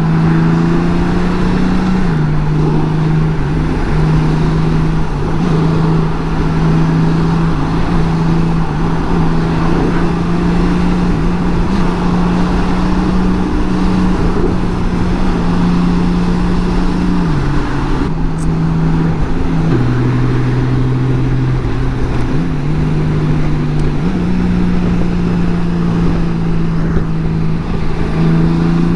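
Honda Gold Wing's flat-six engine running at steady cruise with wind and road rush. Its note drops in two steps a little past the middle and climbs back near the end, as speed and gear change.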